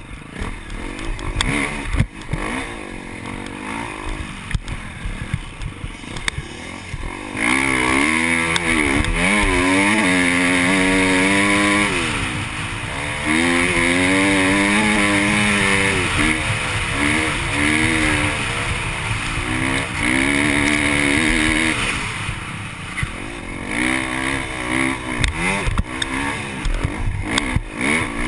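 KTM dirt bike engine running under load, its pitch climbing and dropping over and over with throttle and gear changes. It is loudest from about a quarter of the way in to about three quarters, over steady wind noise and knocks from the bumps.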